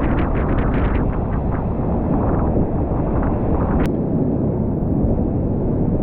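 Strong wind buffeting the microphone over the rumble and hiss of big storm waves breaking and splashing, the splashing most intense in the first two seconds or so. A single sharp click about four seconds in.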